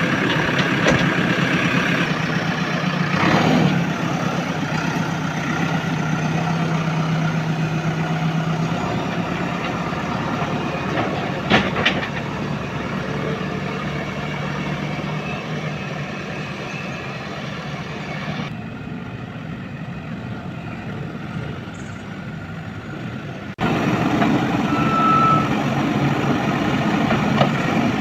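Diesel engines of a JCB 3DX backhoe loader and farm tractors running steadily while mud is loaded, with a sharp knock a little before halfway. The sound changes abruptly twice in the last third.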